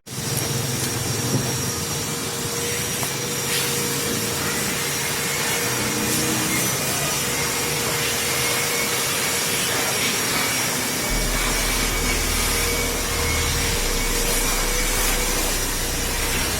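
Pressure washer running with a steady motor whine over the hiss of water spray.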